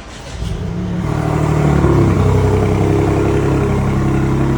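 A car engine gaining revs over about the first second and a half, then running steadily at a higher pitch.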